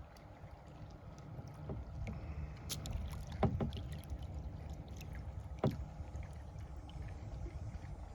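Kayak paddling: paddle strokes in the water, with two sharper knocks, about three and a half and five and a half seconds in, over a low steady rumble.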